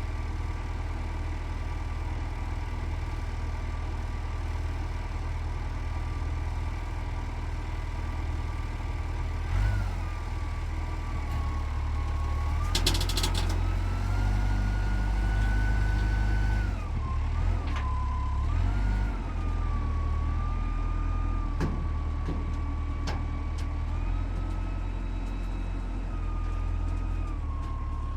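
Heavy vehicle engine running steadily, revved up several times, with a whine that rises and falls with the revs. A short rattle comes about halfway through.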